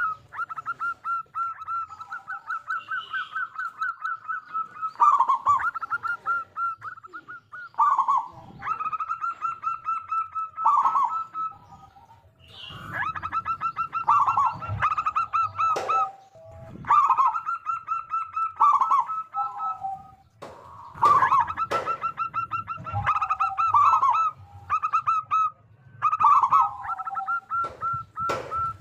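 Zebra dove (perkutut) singing: bouts of quick trilled, pulsed cooing notes, each ending in lower falling coos, repeated about seven times with short pauses between.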